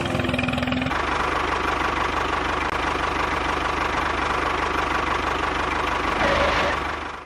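An engine running at a steady speed with a fast, even knocking beat, starting about a second in.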